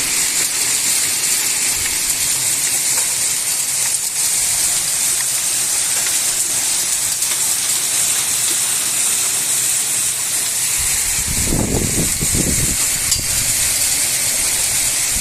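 Heavy summer rain pouring down, a steady loud hiss of water. About eleven seconds in, a low rumble lasting a couple of seconds rises under it.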